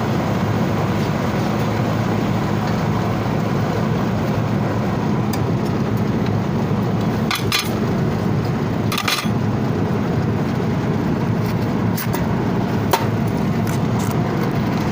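Steady, loud machinery drone, with a few sharp metallic clicks and taps from tool work about halfway through and again later.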